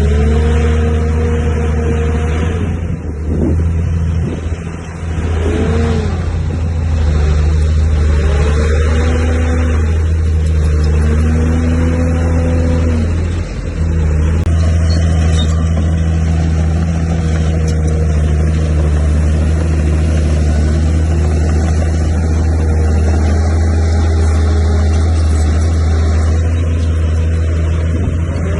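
Heavy diesel engine of earthmoving machinery running under load, with a deep steady drone. A higher whine rises and falls several times in the first half.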